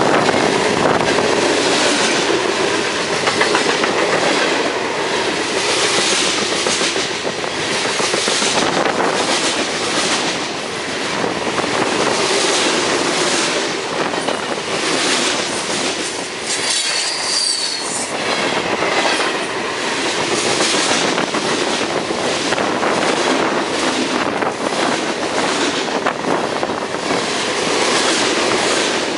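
Freight train rolling past: steady rumble and clatter of wheels over the rails, with a brief high wheel squeal about seventeen seconds in.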